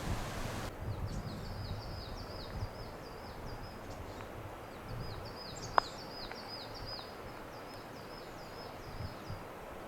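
A small songbird singing repeated fast trains of short, high, falling notes, in several phrases, over a low outdoor rumble. A steady hiss cuts off abruptly under a second in, and a single sharp click sounds about halfway through.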